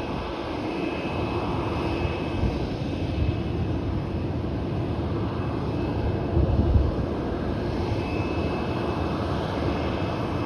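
Jet airliner's engines running with a steady low rumble and a faint high whine, surging briefly a little past the middle.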